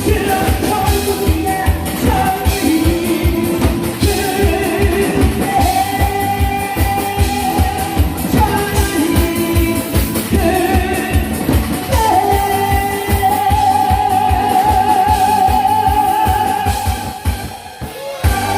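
Korean trot song sung live over a backing track with a steady drum beat, the voice holding long notes with vibrato. The song ends on one long held note, and the music dies away near the end.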